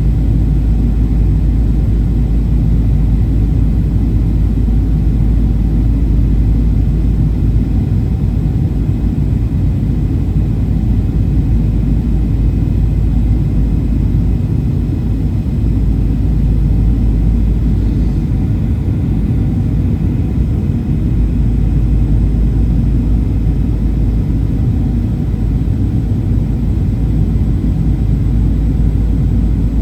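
Steady cabin rumble inside a Boeing 737-800: low, even engine and airflow noise heard from a passenger seat.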